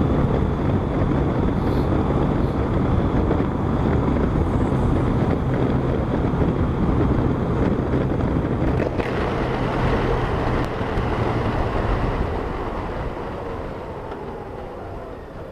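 Riding at speed on a 2012 Honda Gold Wing: wind rushing over a helmet-mounted microphone, mixed with the bike's flat-six engine running steadily. The sound gets quieter over the last few seconds.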